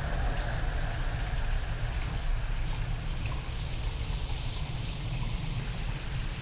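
Steady heavy rain, with scattered drop ticks over a deep, continuous low rumble of storm. It is a real rain-and-thunder recording given a sound-design treatment to make it seem alien.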